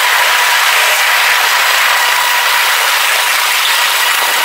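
Freight train cars rolling past a grade crossing: a continuous, even rattling clatter with a steady high ringing tone over it.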